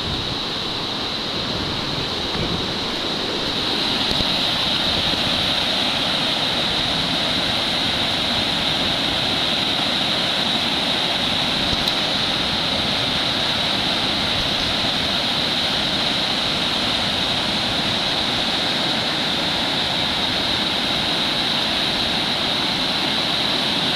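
Fast water rushing steadily over a rocky falls and through a standing surf wave, getting a little louder about four seconds in.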